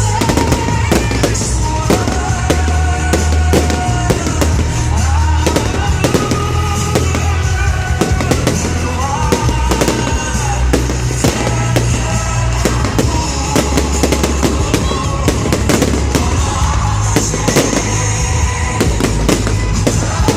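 Fireworks bursting and crackling in rapid, irregular bangs throughout, over loud music with a singing voice and a heavy bass beat played for the show.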